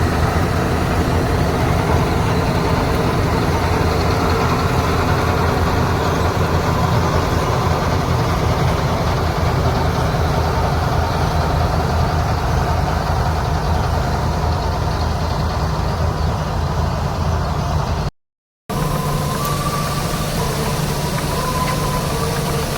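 Combine harvester's diesel engine and machinery running steadily. About 18 seconds in, the sound cuts out for half a second and resumes at a slightly different, steadier pitch.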